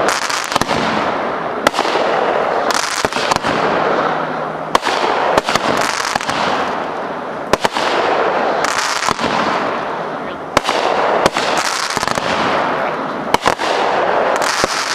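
Consumer fireworks going off in a rapid series: sharp bangs about once a second, with continuous hissing and crackling between them.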